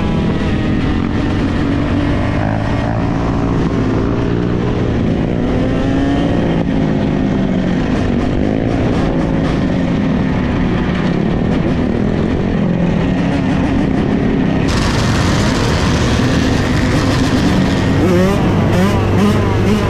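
Several dirt bike engines running and revving together, their pitch rising and falling as the bikes ride. The sound changes abruptly about three-quarters of the way through, where it becomes brighter with more high-pitched noise.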